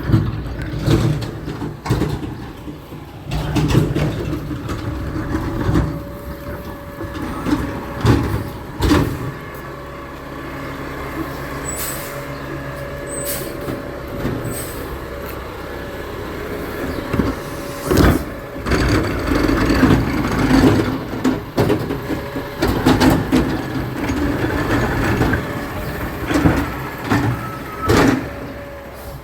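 Garbage truck running, with its engine humming steadily and repeated clanks and bangs throughout.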